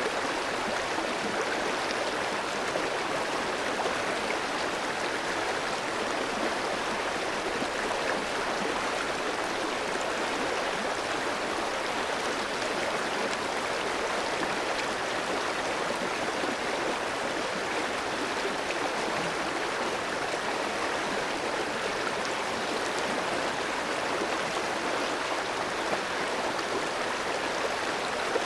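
Clear stream flowing over rocks: a steady rushing and babbling of water that does not change.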